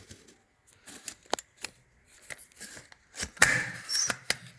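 Handling noises: a string of sharp clicks and short rustles, with a longer, louder rustle a little past the middle.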